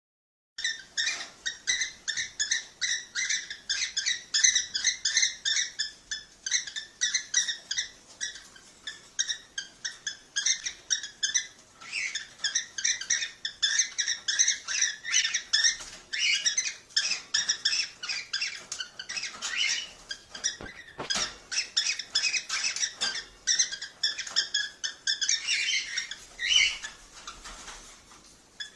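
Cockatiels chirping: a fast, unbroken run of short, high chirps, several a second, the kind of calling played to cockatiels to encourage them to breed.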